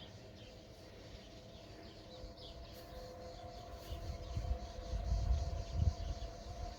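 Small birds chirping in short high calls over a steady two-note hum. From about halfway, low rumbling on the microphone grows louder and becomes the loudest sound.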